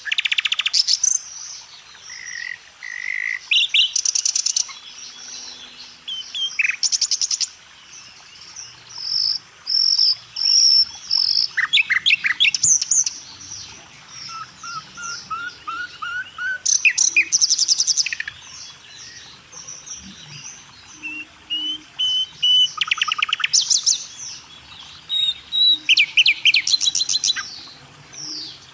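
Several songbirds singing: rapid trills and whistled phrases, repeating one after another with short gaps.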